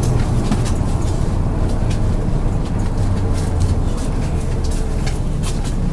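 Cabin noise inside a MAZ-103 bus under way: a steady low drone from the diesel engine and running gear, with scattered rattles and clicks from the body.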